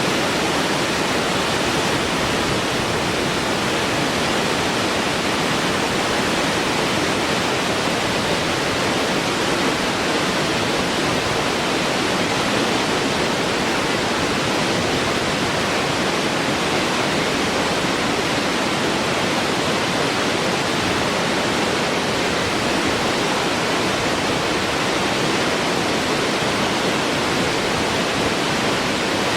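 Waterfall, a steady even rush of falling water with no breaks or changes.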